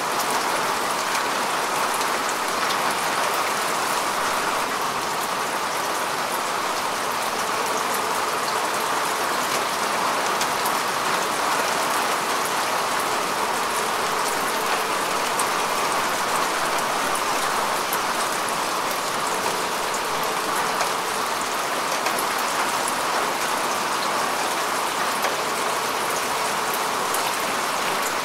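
Steady rain falling on grass and earth: an even hiss of many small drop impacts that neither builds nor fades.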